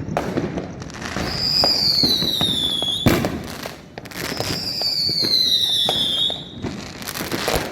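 Fireworks going off close by: two long whistles falling in pitch, each about two seconds, each ending in a sharp bang, over scattered popping and crackling.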